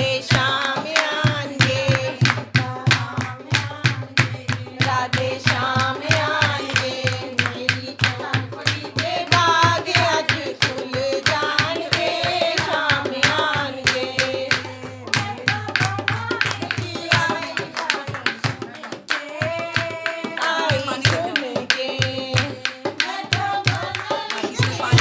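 A woman singing a Hindi devotional bhajan over a steady beat of hand percussion.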